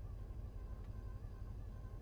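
Mercedes-AMG 4.0-litre twin-turbo V8 idling, heard from inside the cabin as a low steady rumble, with a faint steady higher whine over it.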